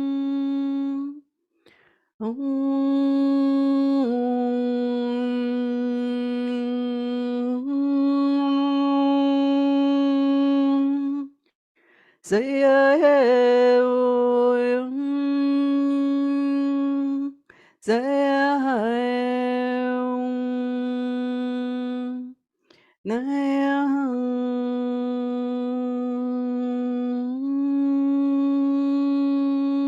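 A single voice humming long, steady held notes of several seconds each, stepping a little up or down in pitch from one note to the next. Short breaks fall between the phrases, and a few notes open with a wavering scoop up into the pitch.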